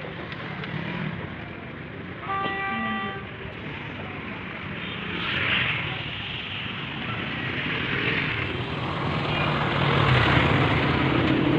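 Road traffic going by, with a vehicle horn sounding once for about a second some two seconds in; the traffic grows louder toward the end.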